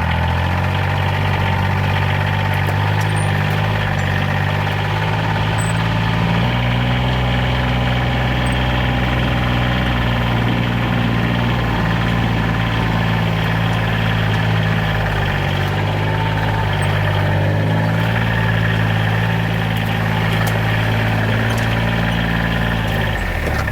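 John Deere Gator utility vehicle's engine running as it is driven, loaded with firewood, its pitch stepping up and down a few times with speed. It cuts off shortly before the end.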